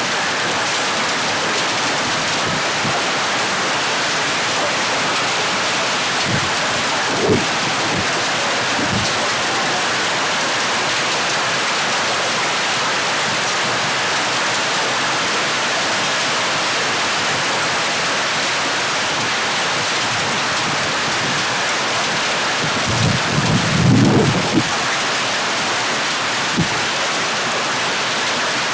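Hail and heavy rain pelting down in a dense, steady hiss. A few short low thumps come through, and a longer low rumble about two-thirds of the way in is the loudest part.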